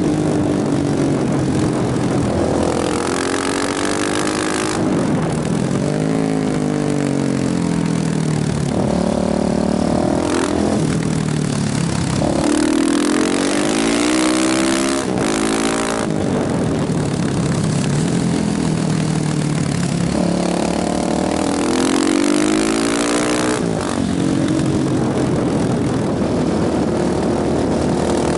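KTM motorcycle engine being ridden hard, its pitch climbing under acceleration and dropping back several times as it shifts or rolls off, over a steady rush of wind noise.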